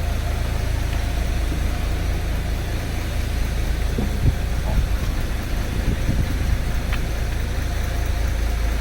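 Fishing boat's engine idling steadily, a continuous low drone with a few faint knocks on the boat.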